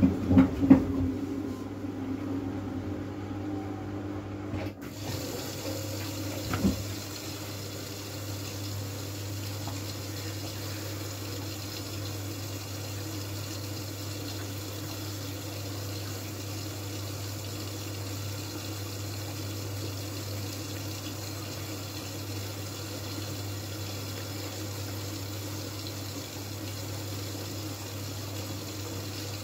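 Miele W433S washing machine taking in water: a steady rush of inflowing water switches on about five seconds in, over a steady low hum, as the machine fills. A few knocks sound in the first second and one more near seven seconds.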